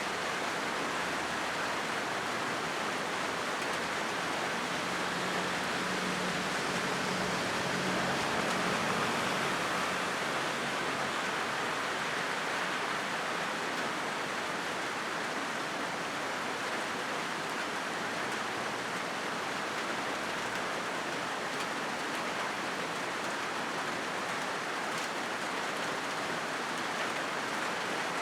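Steady rain drumming on a corrugated zinc roof, an even, unbroken hiss. A faint low hum rises under it for a few seconds in the first half.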